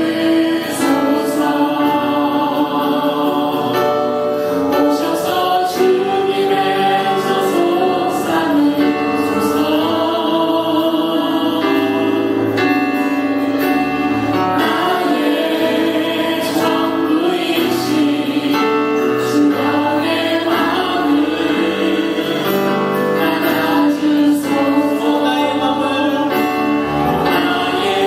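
Choir singing a sacred song with instrumental accompaniment, the voices held in long, steady sustained notes.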